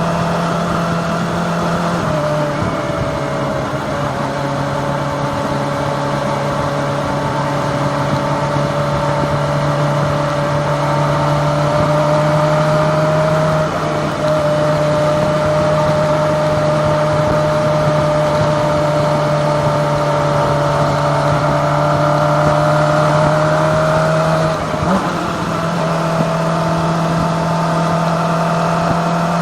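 Kawasaki ZX-25R's 250cc inline-four engine running at a steady cruising speed, heard from on board over wind and road noise. Its pitch drops a step about two seconds in, then dips and rises again near the end, like gear changes or throttle shifts.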